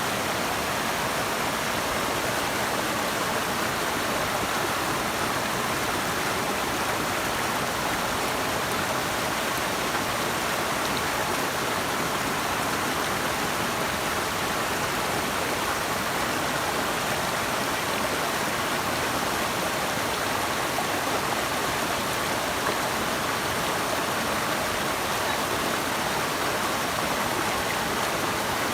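Running water rushing steadily, an even unbroken wash of sound with no separate splashes or drops standing out.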